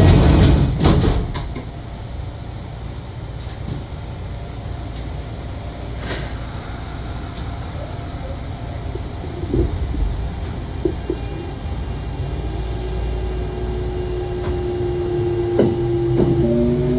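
Kintetsu 1031 series electric train at rest, its cabin hum broken by loud knocks at the start and a few clicks. About twelve seconds in, the Hitachi GTO-VVVF inverter sets in with a steady tone that begins to rise near the end as the train starts to pull away.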